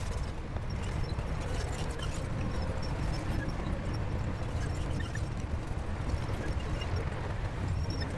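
SHANTUI crawler bulldozer's diesel engine running steadily with a low rumble, over a scattering of small metallic clicks and clanks from the machine.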